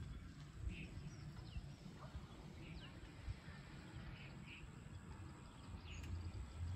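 Small birds chirping intermittently, short high calls every second or so, over a low, uneven outdoor rumble.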